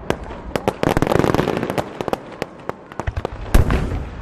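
Aerial fireworks going off: a dense run of crackling pops about a second in, scattered sharp bangs, and one loud boom near the end.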